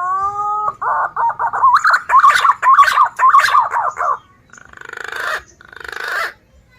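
Green pigeon (punai) calling: a rising whistled note, then a run of quick, wavering whistles, followed by two harsh hissing notes that grow louder.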